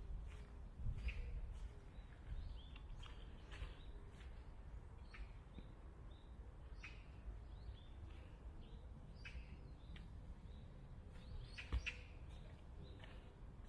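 Small birds chirping with short, high calls scattered throughout, over a faint low rumble, with one soft thump near the end.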